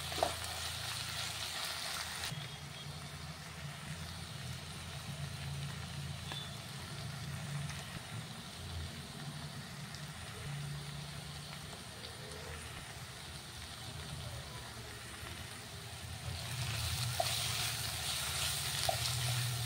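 Chopped onion and tomato sizzling in oil in a nonstick wok, with a spatula clicking and scraping against the pan near the start and again near the end as the spices are stirred in. The sizzle drops lower through the middle, under a steady low hum.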